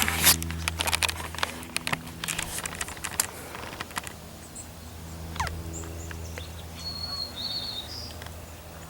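Crackling rustle for the first few seconds over a steady low hum, then a few short, high bird chirps near the end.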